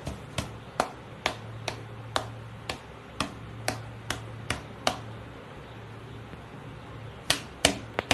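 Sharp clicks repeating about twice a second, stopping about five seconds in and coming back three times near the end, over a faint low hum.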